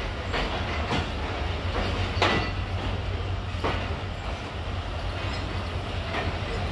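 Passenger train coaches rolling slowly out of a station, heard from a carriage window: a steady low rumble with a few irregular knocks as the wheels cross rail joints, the loudest about two seconds in.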